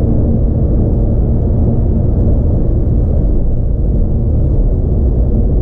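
Porsche 911 (997) Carrera's flat-six engine and tyre noise heard inside the cabin: a steady low rumble with no clear rise or fall in revs.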